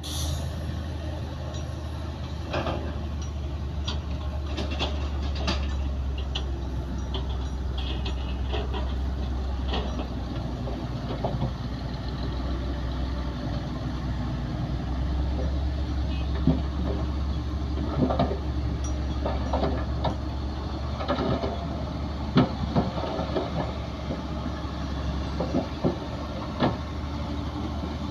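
Diesel engines of heavy earthmoving machinery running steadily with a low rumble, with scattered clanks and knocks that come more often in the second half.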